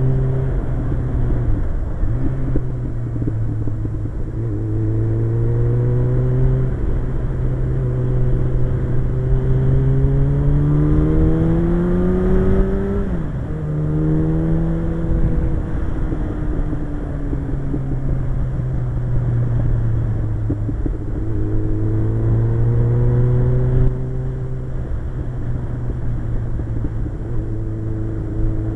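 Suzuki GSX-R 1100 inline-four motorcycle engine running under way, with wind rush on the microphone. Its pitch holds steady for long stretches; about halfway through the revs climb and then drop sharply.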